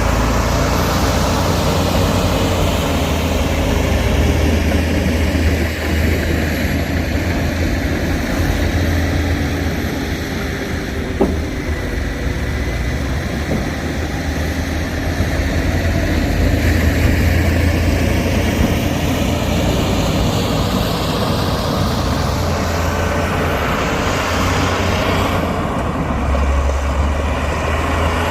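Heavy diesel earthmoving machinery running steadily under load, with a deep low rumble. There is one brief sharp knock about eleven seconds in.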